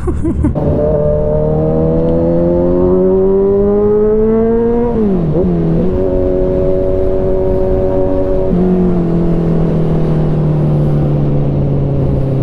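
Kawasaki Z900RS inline-four engine through an Arrow aftermarket exhaust, pulling hard under acceleration: the pitch rises for about four seconds, drops and recovers around five seconds in at a gear change, holds steady, then steps up once more and slowly falls as the bike eases off.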